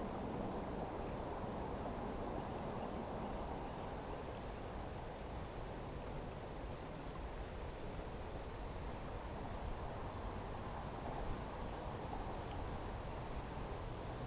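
Insects trilling steadily in high, fine pulsed tones over a constant low rushing background.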